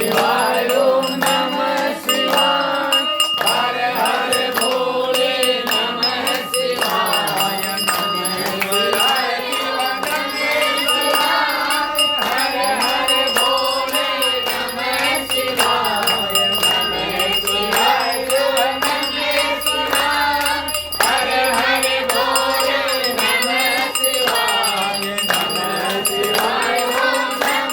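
Hindu devotional chanting to Shiva, sung to a melody over continuous music with a steady high ringing tone and frequent light percussive strokes.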